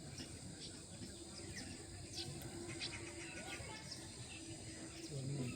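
Outdoor ambience: scattered short, high bird chirps over a faint steady hum, with a brief low sound near the end.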